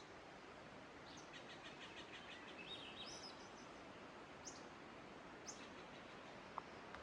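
A small songbird singing a quick trill of repeated high notes, then two single short high chirps, faint over a steady background hiss.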